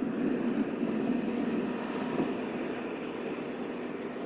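Steady road and engine noise heard inside a moving pickup truck's cab, with the tyres running on a snow-covered road.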